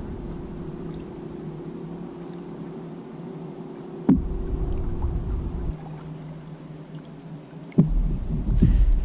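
A small fluted-plastic kayak out on the water, with two sharp knocks on the hull about four seconds apart, each followed by low rumbling, and water sounds near the end.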